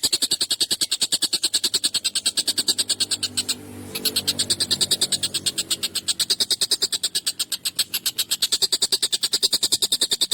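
Tengkek buto kingfisher giving a long, rapid, harsh chattering call of about a dozen notes a second, broken off briefly about three and a half seconds in, then resumed.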